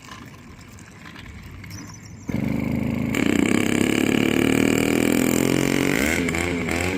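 80cc two-stroke motorized bicycle engine with its stock exhaust deleted, cutting in suddenly about two seconds in and running loud and high-revving. Its pitch wavers near the end.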